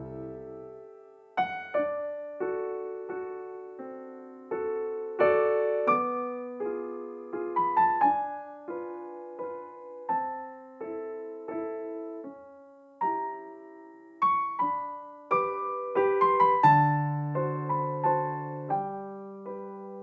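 Gentle solo piano background music: a slow melody of single notes over held bass notes.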